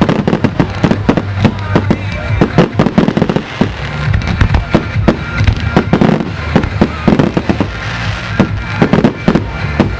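Fireworks display: a rapid, dense run of bangs and crackles from shells bursting, several a second.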